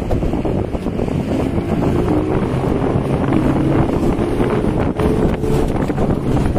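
Twin Yamaha 200 hp two-stroke outboard motors running at speed on a speedboat, a steady engine tone under heavy wind noise on the microphone.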